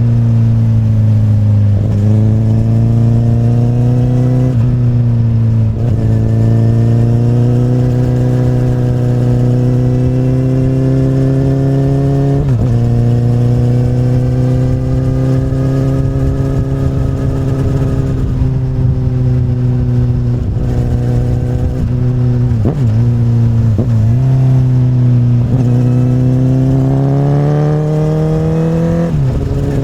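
2008 Honda CBR1000RR inline-four running through an Akrapovic carbon slip-on exhaust while riding. Its pitch holds steady or climbs slowly under throttle, with about ten brief sharp dips in revs.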